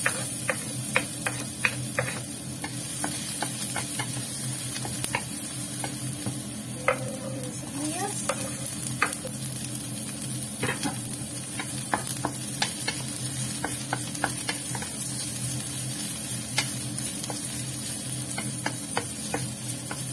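Chopped garlic and onion sizzling in hot oil in a stainless steel wok, sautéing, with frequent sharp taps and scrapes as they are stirred against the pan.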